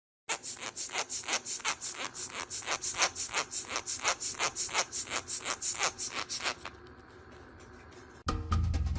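A rapid run of short scratching or scraping strokes, about four a second, which stops after about six and a half seconds. Music starts near the end.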